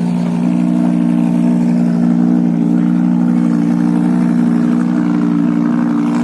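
Lamborghini Huracán's V10 engine and exhaust running steadily at an even, unchanging engine speed, without revving.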